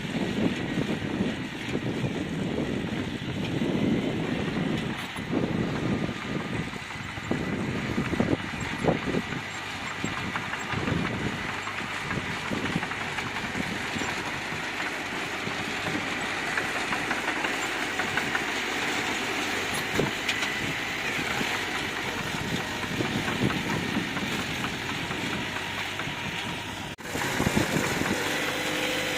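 Bulldozer's diesel engine running, with irregular low rumbling and knocks through the first half. The sound breaks off abruptly and resumes near the end.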